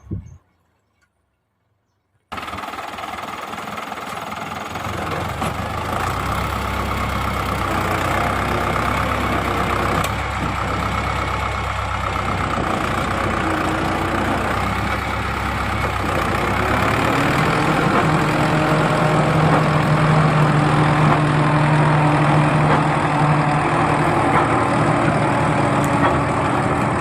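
Tractor engine running steadily. It comes in abruptly after about two seconds of silence.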